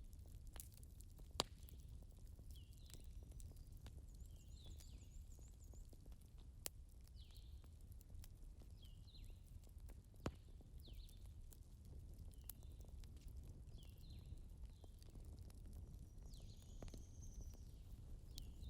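Faint ambience of short, high, falling chirps repeating about once a second, like a small bird calling, over a steady low rumble, with a few sharp clicks.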